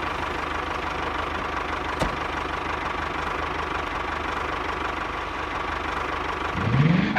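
Tractor engine idling with a fast, even chug, then revving up with a rising pitch near the end.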